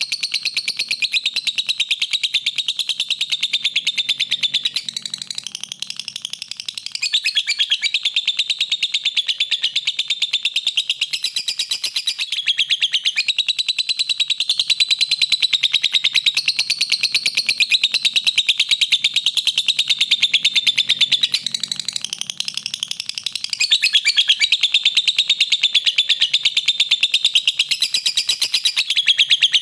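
Lovebird chattering in a long, unbroken stream of rapid, high chirps: the continuous song used as masteran, a recording played to tutor other songbirds.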